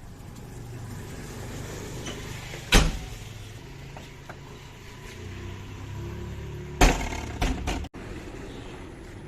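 Diesel engine of heavy construction machinery running steadily. Two loud knocks come about three seconds in and about seven seconds in, with a couple of lighter knocks just after the second.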